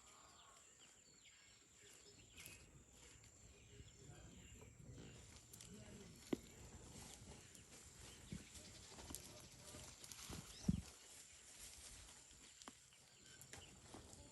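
Near silence: faint outdoor ambience with a few soft knocks, the loudest about ten and a half seconds in.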